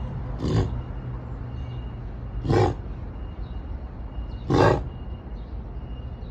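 A dog making three short, harsh sounds about two seconds apart, each about a quarter second long.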